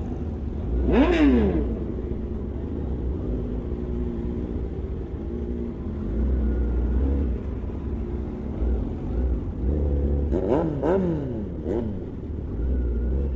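Superbike and supercar engines over a steady low rumble. One loud rev falls sharply in pitch about a second in, and several quick revs rise and fall around ten seconds in.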